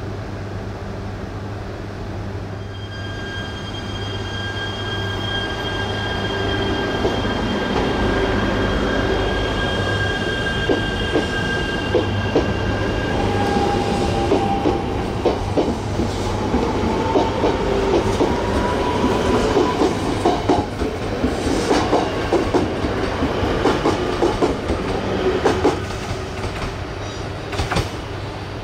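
E3 series Yamagata Shinkansen (Tsubasa) train running along the conventional line, its wheels clacking over rail joints. High steady whine tones come first, then a tone that rises in pitch. The clacking builds to a dense run in the second half and eases off near the end.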